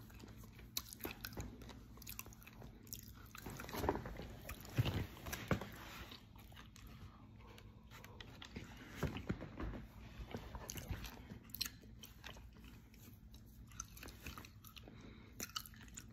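A person chewing and crunching dry edible clay, with many small crisp crunches and denser bursts of chewing about four and nine seconds in.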